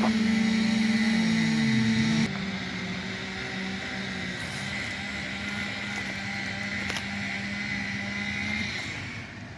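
Engine running at a steady speed, louder for the first couple of seconds, then dropping suddenly and fading out near the end.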